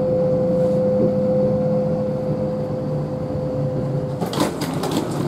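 Inside a Kintetsu express train pulling into a station: a steady electrical hum holding one tone over a lower drone. About four seconds in it gives way to a run of clicks and rattles with a hiss.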